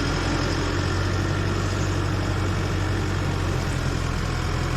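Heavy truck engine running at a steady speed.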